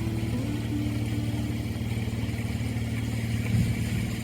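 Sailboat's auxiliary engine running steadily under way, a low even drone with a fine regular pulse.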